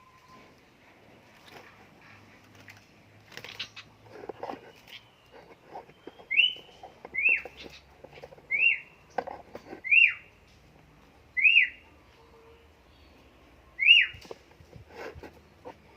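Sooty-headed bulbul (kutilang) giving six short, sharp whistled calls, one every second or two, in the second half. Scattered knocks and rustling come before the calls.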